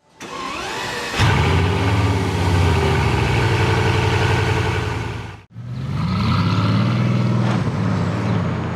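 Bugatti Veyron 16.4 Grand Sport's quad-turbo W16 engine revving: it climbs in pitch about a second in and holds high. The sound cuts out briefly about five and a half seconds in, then the engine revs up again.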